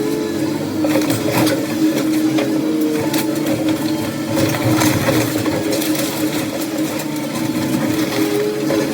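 Diesel engine of a demolition machine running steadily, with scattered knocks and crunches of debris.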